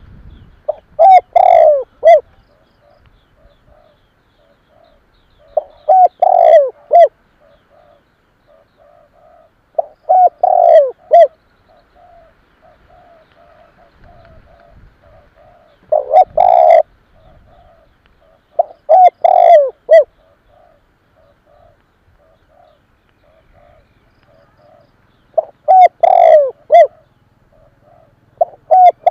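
Spotted dove cooing: loud phrases of a few notes each, repeated about every three to five seconds, with fainter coos between them. It is the male's crowing song, used as a decoy call.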